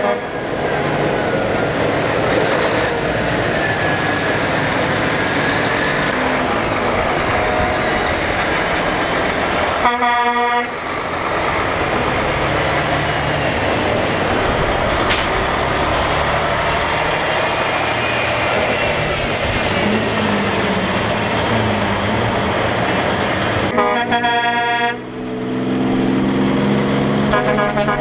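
Trucks rolling past with engines running and air horns blasting: one horn blast about ten seconds in, and more near the end.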